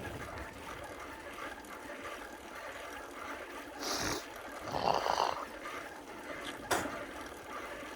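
Steady street and riding noise from a bicycle moving through city traffic, with two short louder sounds about four and five seconds in and a sharp knock near the end.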